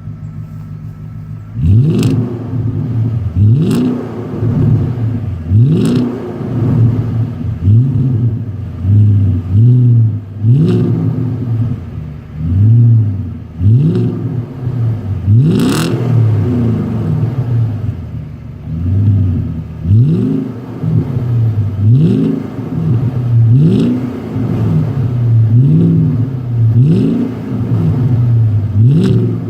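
Audi S8 D2's 4.2-litre V8 with its rear muffler removed. After a brief idle it is blipped over and over, about once every two seconds, the pitch rising and falling back each time, and some blips end with a sharp crack.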